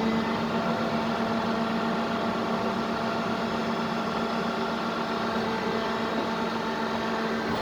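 Garbage truck engine held at raised speed in a steady drone, typical of the truck running its hydraulics to cycle the compactor.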